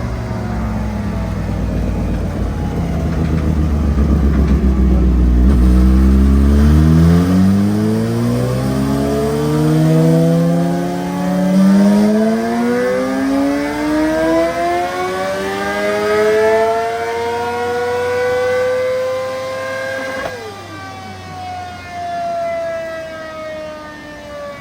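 Sport motorcycle engine held in one gear, its revs climbing steadily for about fifteen seconds out of a low rumble. The throttle then shuts suddenly and the revs fall away.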